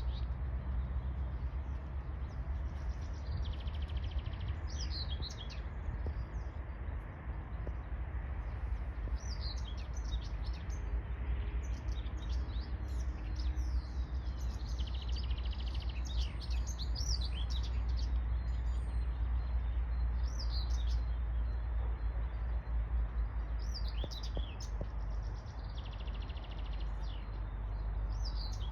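Small songbirds chirping and singing over and over, with a few short buzzy trills, over a steady low rumble.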